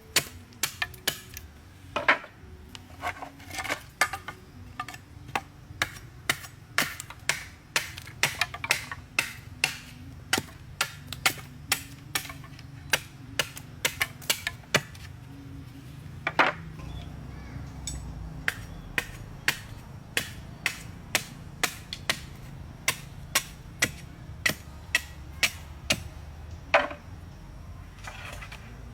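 Sharp knocks and taps of hand-tool work on material, about two a second at first and sparser later, with a few louder strikes.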